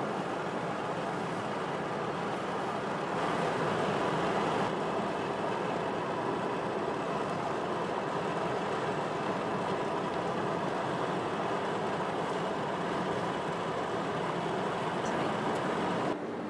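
Steady road and wind noise of a car being driven, a little louder from about three seconds in and dropping suddenly near the end.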